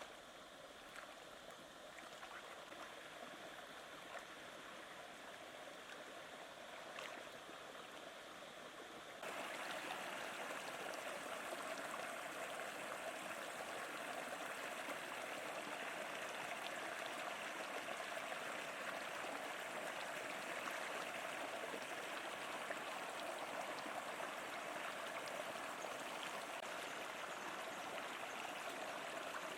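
Steady rush of flowing water, becoming louder all at once about nine seconds in.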